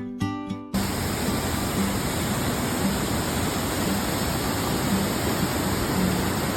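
Steady, even rushing of falling water, like a waterfall. It cuts in abruptly about a second in, after a brief moment of acoustic guitar music.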